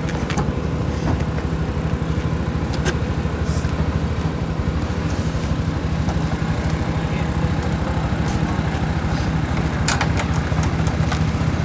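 An engine idling steadily, with a few short clicks over it.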